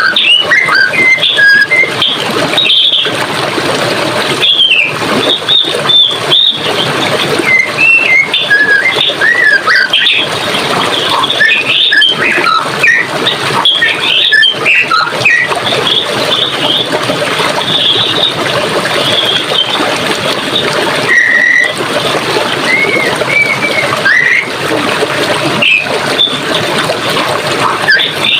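Running water flowing steadily, with birds calling over it in many short chirps and whistles.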